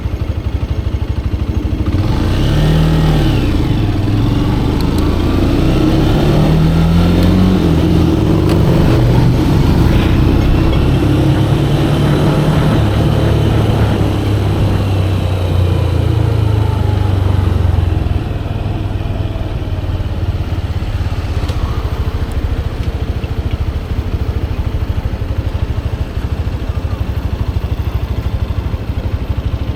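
Manual-transmission motorcycle engine running under way, its pitch rising and falling with the throttle for the first eighteen seconds or so, then settling lower and steadier.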